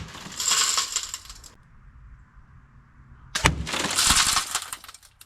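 A sharp crack right at the start as a crossbow arrow strikes a steel car door. Then two harsh hissing, scraping bursts about a second long each, the second opening with a sharp click.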